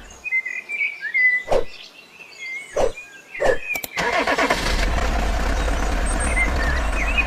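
Birds chirp and a few sharp knocks sound over the first few seconds. Then, about four seconds in, a steady engine-like running sound with a low hum starts and carries on.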